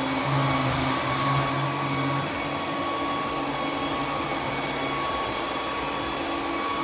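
Roborock Q10V+ robot vacuum running, its suction fan giving a steady whirring hiss with a thin whine. A lower hum is stronger for the first couple of seconds, then eases.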